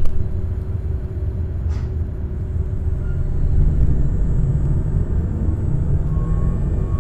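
Z 20500 double-deck electric train running, heard from inside: a steady low rumble, with a thin high whine coming in about two and a half seconds in.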